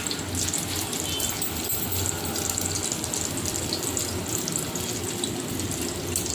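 Egg-coated chicken shami kebabs shallow-frying in hot oil in a pan: a steady sizzle with quick crackles all through.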